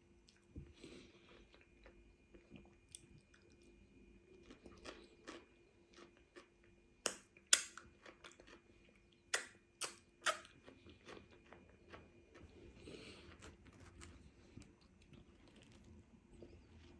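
Raw celery sticks being bitten and chewed close to the microphone. Soft chewing runs throughout, with five loud crisp crunches between about seven and ten and a half seconds in.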